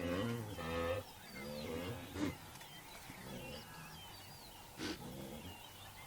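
African lion roaring: a series of deep grunting calls, the first the longest, then shorter grunts spaced out and growing fainter. Small birds chirp faintly throughout.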